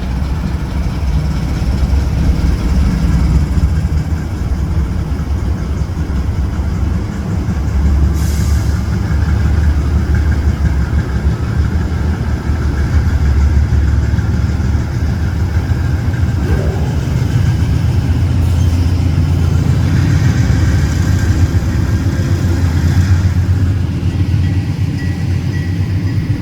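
Freight train rolling by: a loud, steady low rumble, with a brief high hiss about eight seconds in.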